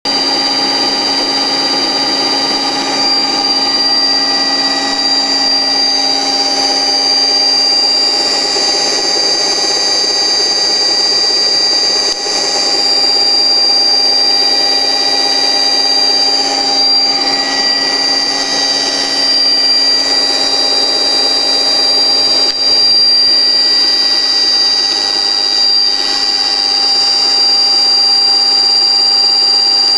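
Radial motor driven by a frequency converter, running at a steady speed: a high, steady whine over a lower hum, with two brief dips in level about a third and three quarters of the way through.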